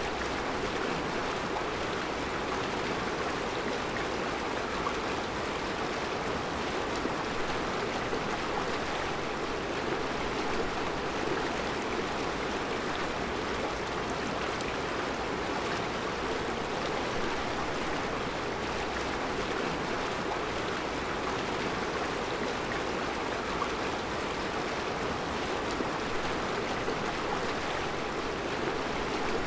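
Mountain river flowing steadily over round rocks in a rocky riverbed: a continuous, even rush of water.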